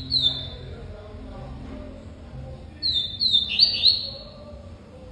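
Double-collared seedeater (coleiro) giving short chirps that drop in pitch: two at the start, then a quick run of four or five about three seconds in. These are brief calls, not full song, from a bird that has stopped singing.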